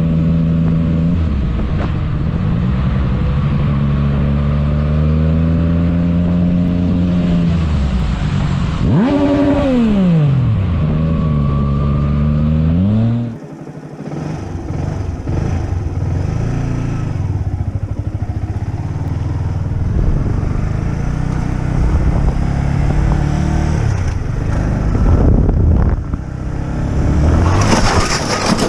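Motorcycle engine running under way, its pitch rising and falling with the throttle, with a quick rev up and back down about nine seconds in. After a brief drop about thirteen seconds in, engine and road noise carry on with a rougher, less steady note.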